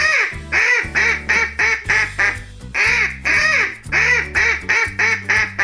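Duck quacking over and over, about fourteen quacks in quick runs, over steady backing music.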